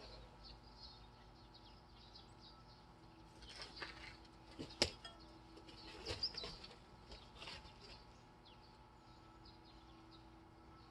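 Faint outdoor ambience with scattered bird chirps and a few light clicks or knocks, the sharpest about five seconds in.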